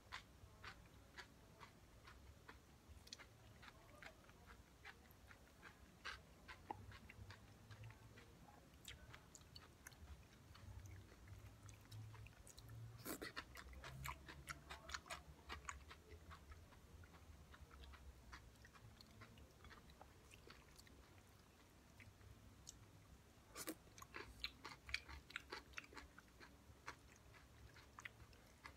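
Faint close-up chewing of a crunchy shopska salad of raw cucumber, tomato, onion and white cheese: wet crunches and mouth clicks, busiest around halfway and again near the end.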